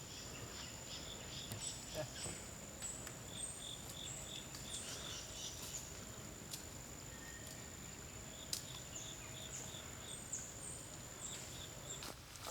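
Insects calling: a steady high-pitched trill that stops shortly before the end, with rows of quick repeated chirps from others and a few short falling chirps. A few faint clicks.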